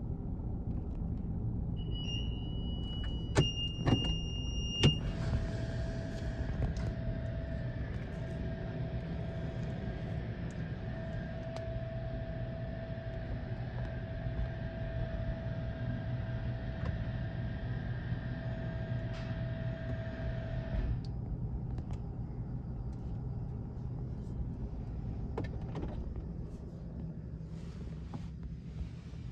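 Steady low rumble of running machinery, with a few clicks and high electronic beeps near the start. Then a motor with a steady whine and hiss runs for about sixteen seconds and cuts off.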